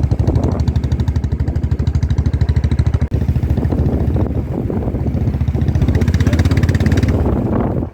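Motorcycle engine running with a fast, even low pulse while riding, mixed with wind noise on the microphone; the engine sound falls away near the end.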